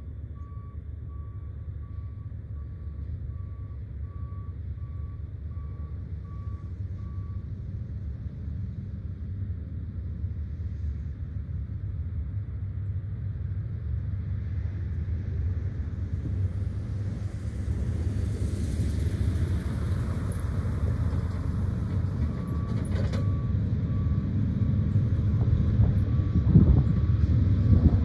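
Low rumble of an approaching Norfolk Southern freight train's diesel locomotives, working slowly up a long grade and growing steadily louder. A faint beeping tone repeats about once a second for the first several seconds and again later on.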